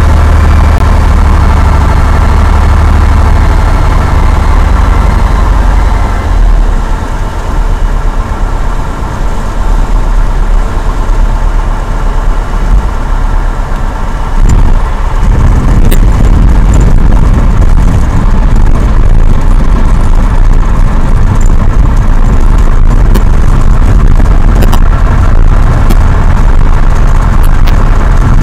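Cessna 172's piston engine heard from inside the cabin, running loud and steady; its note changes and eases off about six seconds in, then builds back to full strength about halfway through.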